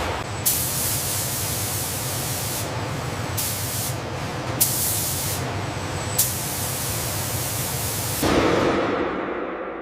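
Factory machinery noise: a steady low rumble under repeated bursts of hissing, with a few sharp clicks. Near the end it changes to a louder, duller rush that starts to fade.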